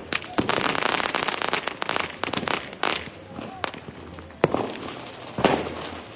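Fireworks going off: a dense, rapid crackle of many small reports for about the first three seconds, then three or four separate loud bangs spaced about a second apart.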